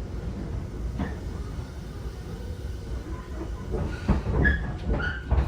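Tobu 10000 series electric train running, heard from inside the car as it slows toward the station. There is a steady low rumble with a single clack about a second in, then a cluster of knocks and short squeals of wheels and brakes from about four seconds in.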